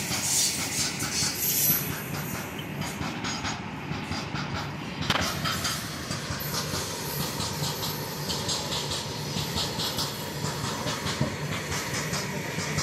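Freight train of loaded open coal wagons rolling along: a steady rumble and rattle of steel wheels on the rails, with many quick clicks and one sharper knock about five seconds in.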